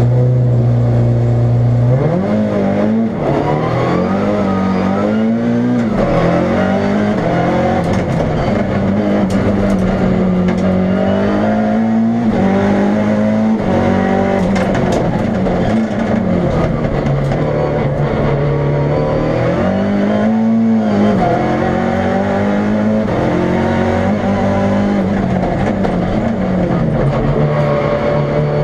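Fiat Uno Turbo 1.4-litre turbocharged engine in a Fiat Punto race prototype, driven hard. It holds a steady pitch for about two seconds, then revs up and drops back again and again as the car accelerates and slows between turns.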